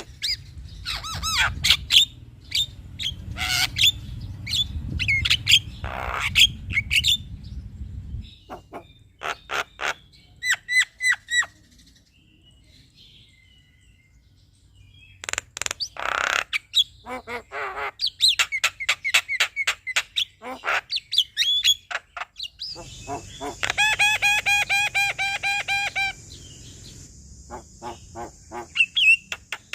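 Male Javan myna (jalak kebo) singing: rapid clicks, short whistles and harsh chattering notes, with a brief pause in the middle and a run of fast repeated ringing notes later on.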